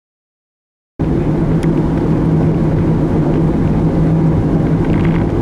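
An engine running steadily, a loud, even hum that starts abruptly about a second in.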